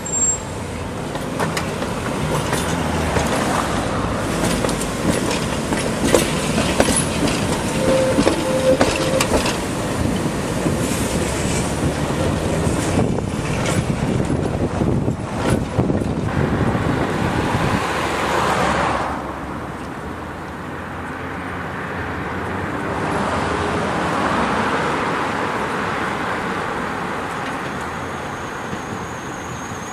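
Tram running past, its wheels clattering and knocking over rail joints; the clatter drops off about two-thirds of the way through. A smoother vehicle pass then rises and fades.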